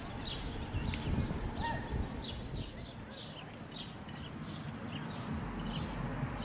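Small songbirds chirping, a run of short, high, downward-sweeping notes about two or three a second, with one lower whistled note about a second and a half in. A low rumble sits underneath and eases off near the end.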